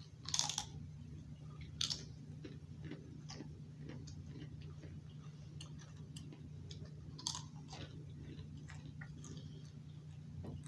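A person biting and chewing Pringles Wavy potato chips: crisp crunches, the loudest about half a second in, near two seconds and around seven seconds, with smaller crunches between.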